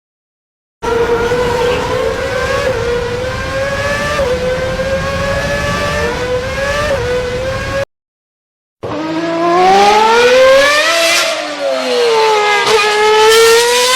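High-revving engine sound effects, car or motorcycle: first a high-pitched exhaust note climbing slowly with small steps for about seven seconds. After a short break, a second run accelerates with a rising pitch, drops briefly near the end as if shifting gear, then climbs again.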